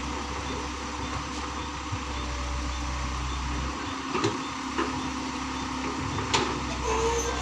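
Excavator's diesel engine running steadily with a low hum, with a few short sharp knocks, the loudest about six seconds in.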